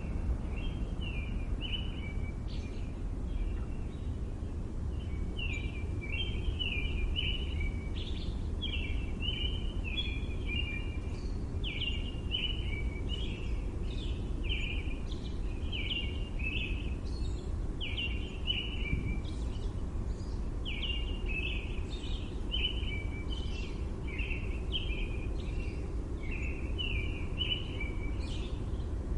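Small birds chirping in quick, repeated short calls over a steady low rumble of city background noise.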